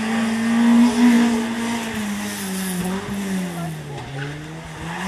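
Rally car engine at high revs, its note falling over a couple of seconds as it slows for a hairpin, then rising again near the end as it pulls away.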